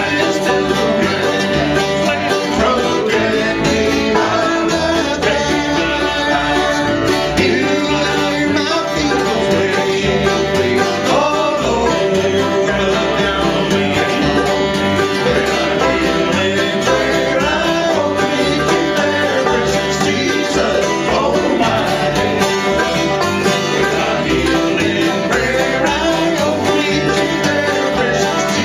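Live bluegrass band playing a song, plucked strings over a steady bass beat.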